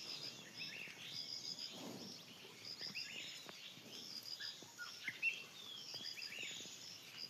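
Several birds chirping and calling over a faint hiss, with a high, quick run of three or four notes repeating every second or so.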